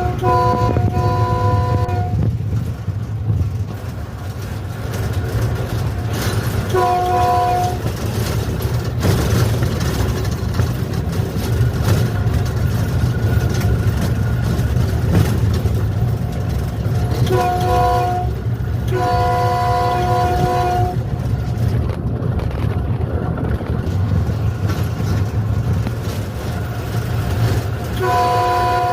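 A diesel locomotive's multi-tone air horn sounds in repeated blasts over the steady low rumble of the locomotive running at speed, heard from the cab. There are two short blasts at the start and a short blast about seven seconds in. Around the eighteen-to-twenty-one-second mark come a short blast and then a longer one, and a long blast begins near the end.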